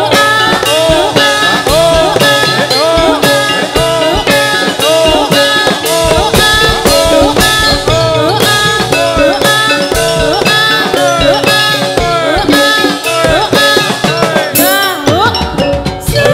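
Loud live accompaniment music for a gedruk/topeng ireng dance: a fast, steady drumbeat under a repeating melodic line that slides up and down, with a cymbal-like crash near the end.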